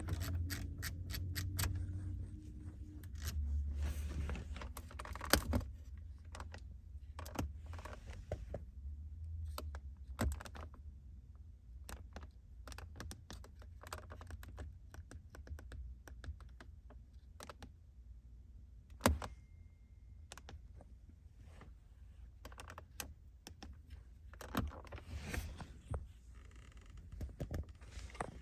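Irregular small clicks and light knocks, with two sharper knocks about five and nineteen seconds in, over a low steady rumble.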